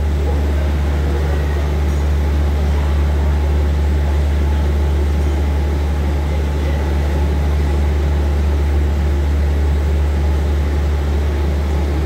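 A standing passenger train gives a steady low drone, its engines running at idle while it waits at the station.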